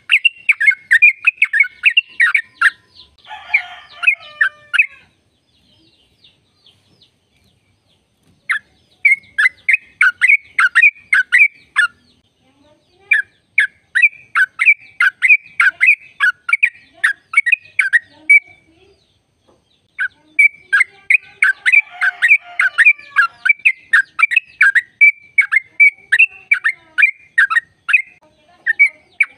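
Yellow-vented bulbul (trucukan) singing long runs of rapid, repeated chattering notes, about three a second, in three bursts separated by pauses of a few seconds. A rougher, rasping call comes in twice, a few seconds in and again in the last bout.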